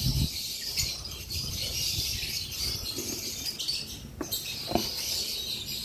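Continuous high-pitched chirping and chattering of small caged birds, with a couple of faint brief knocks from handling about four and five seconds in.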